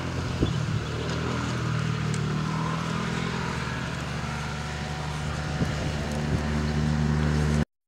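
Motorcycle engines idling, a steady low hum that slowly grows louder toward the end.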